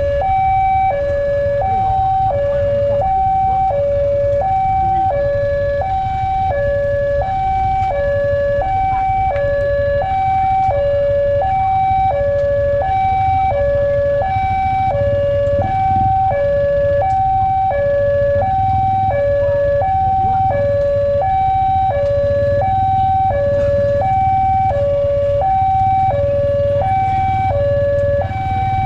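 Electronic railway level-crossing alarm sounding a steady two-tone warning, alternating between a higher and a lower tone at about one high-low cycle a second.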